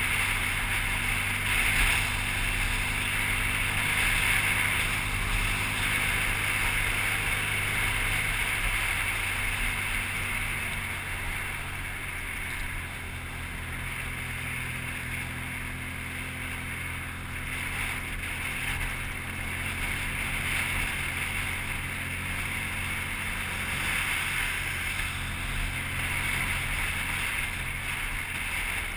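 BMW R1200GS boxer-twin engine running at road speed, with wind and road noise rushing over the microphone. It is somewhat quieter for a few seconds in the middle, then picks up again.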